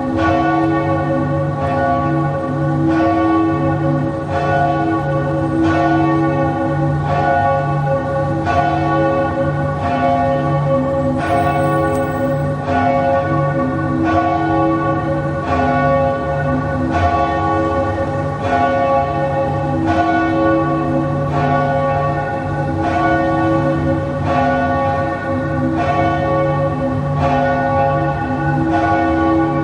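Church bells tolling steadily, about one stroke a second, each stroke ringing on under the next in a dense metallic hum of overtones.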